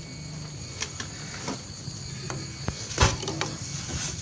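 Steady high-pitched insect chorus, with a few scattered knocks and rustles; the loudest is a thump about three seconds in.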